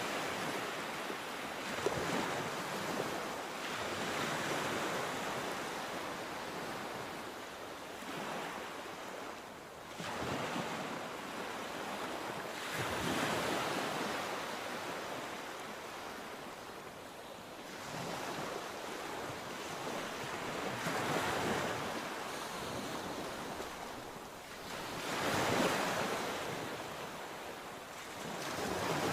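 Sea waves breaking on the shore, the surf swelling and falling back every few seconds, with some wind on the microphone.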